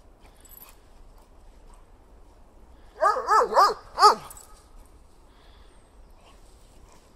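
German Shepherd dog barking four times in quick succession, about three seconds in.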